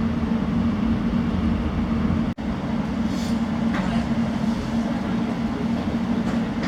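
Steady low hum of an Elizabeth line Class 345 train heard inside the carriage, with one brief break about two seconds in.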